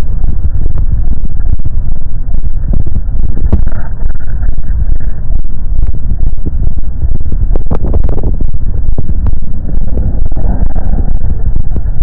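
Royal Enfield Classic 350's single-cylinder engine running, heard as a loud, steady, deep rumble with scattered short ticks.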